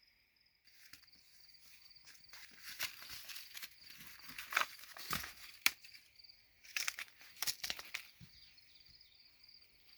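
Irregular rustling and crackling, starting about a second in and dying down near the end, over steady insect chirring.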